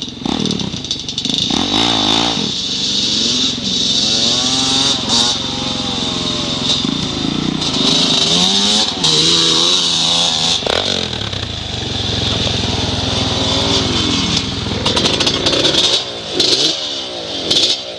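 Off-road dirt bike or ATV engine running and revving repeatedly, its pitch rising and falling with the throttle and gear changes.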